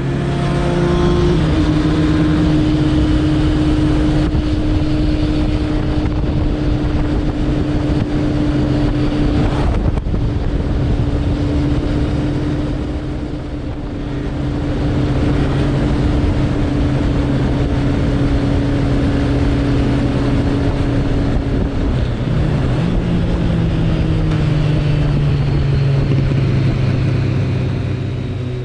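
Suzuki Bandit 1200's inline-four engine running at a steady cruising pace while riding, over a continuous rushing noise. The engine note shifts near the start and again about two thirds of the way through, and eases off briefly in the middle.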